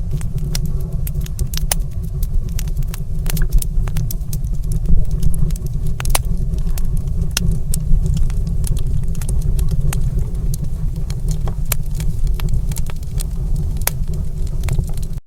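Fire burning in a stone fireplace: a steady low rumble with frequent, irregular sharp crackles and pops.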